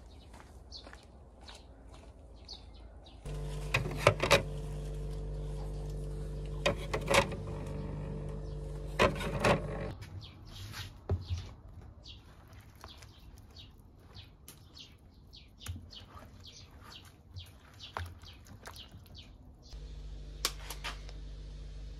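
Small birds chirping in short, repeated high calls. From about three seconds in until about ten seconds, and again near the end, a steady low hum sits underneath, with a few sharp clicks.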